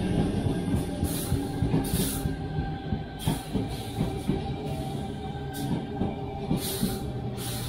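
Electric suburban train at a station: a steady hum with several short hissing bursts at irregular intervals, with music playing over it.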